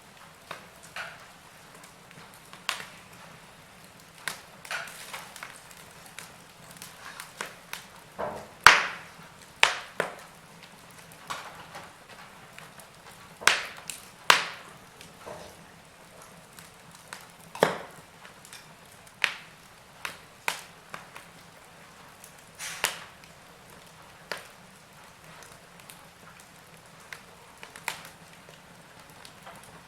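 Wood fire crackling in a fireplace: irregular sharp pops and snaps over a faint steady background, the loudest pops about 9 and 14 seconds in.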